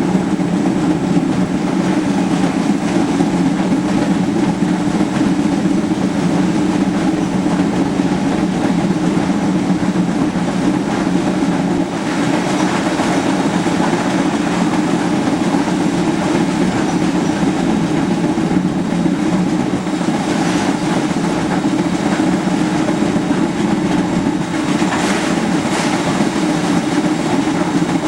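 Passenger train pushed by a Heisler geared steam locomotive, rolling steadily along the track: a continuous, unbroken rumble of the moving train and its wheels on the rails.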